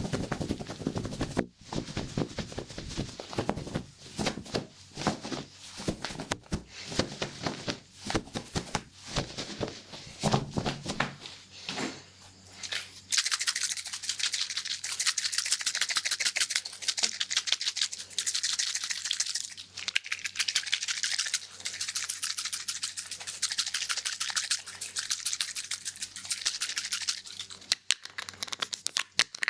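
Scissors snipping hair in a fast, continuous run of sharp clicks. This is preceded by about ten seconds of denser, lower rustling and clicking.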